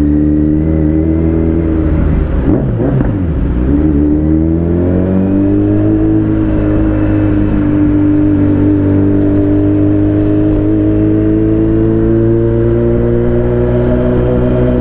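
Kawasaki Z900's inline-four engine under way at a steady pitch; about three seconds in the revs drop and then climb back, after which the engine holds a steady, slowly rising note.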